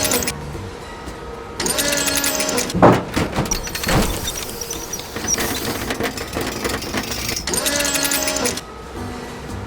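Cartoon sound effects of rapid mechanical clattering in three bursts, each carrying a pitched tone that bends up and down, with two sharp knocks about three and four seconds in.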